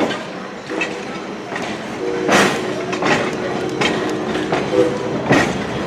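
Railroad passenger coach rolling on the track, its wheels clacking over rail joints in a few sharp, irregular knocks over a steady rumble of running noise.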